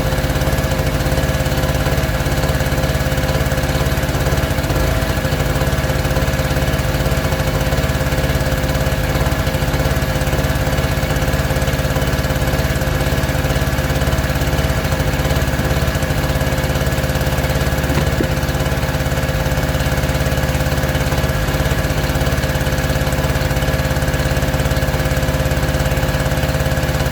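A small engine running steadily at constant speed, a continuous drone with an unchanging pitch.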